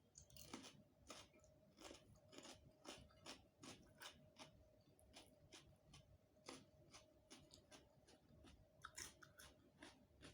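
Soft, close-miked chewing of a rice-and-curry meal: a steady run of moist, slightly crunchy chews, about two to three a second.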